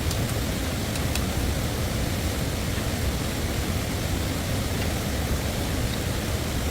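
Stream water rushing steadily, an even noise with a few faint high ticks over it.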